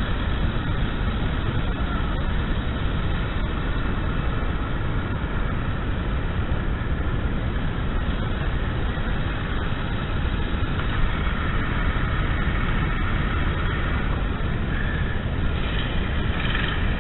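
Steady rumbling vehicle noise, heaviest in the low end, with no distinct engine note standing out.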